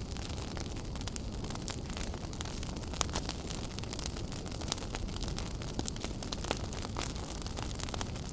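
Wood fire burning in a fireplace: a steady low rumble of flames with frequent irregular sharp crackles and pops, one louder pop about three seconds in.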